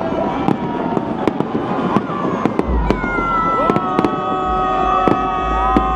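Fireworks bursting overhead, a string of sharp bangs and pops at irregular intervals. From about halfway, several long held tones ring out over the bangs.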